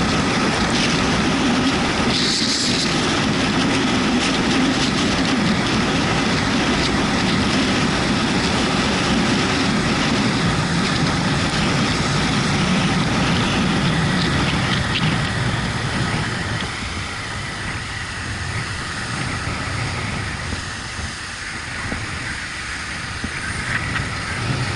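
Yamaha MT-125's single-cylinder four-stroke engine running on the move, under a steady rush of wind and road noise from riding in the rain. The noise drops somewhat about two-thirds of the way through.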